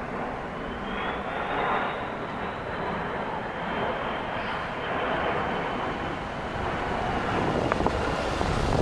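Turbofan engines of two Boeing C-17 Globemaster military transport planes flying by, a steady jet roar with a thin high whine that rises slightly at first and then slowly falls.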